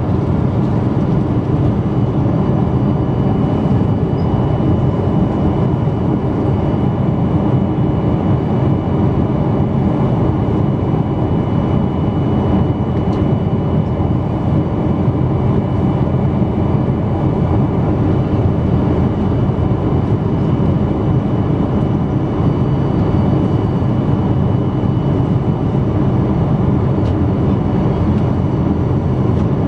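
Steady, loud jet engine and airflow noise heard inside the cabin of a Boeing 777-200 airliner, an even low rumble with a few faint steady tones above it.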